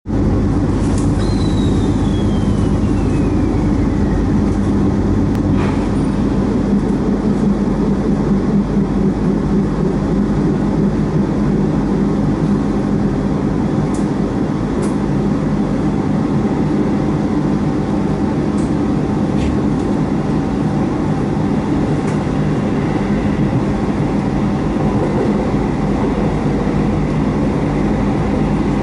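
Local train running, heard from inside the passenger car as it pulls away from a station and gathers speed: a steady rumble with a falling whine in the first few seconds and a few sharp clicks.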